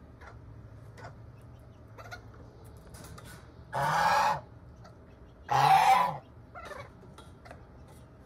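Backyard poultry calling: two loud, harsh calls about a second and a half apart, with faint clucks between them.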